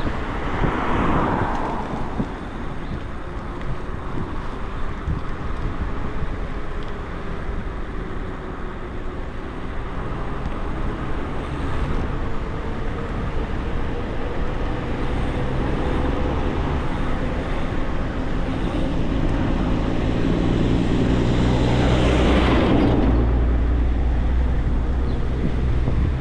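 Riding noise from an e-bike on the road: wind rumble on the microphone that grows heavier after about fourteen seconds, with a faint steady whine running under it. A vehicle passes close just after the start and another about twenty-two seconds in.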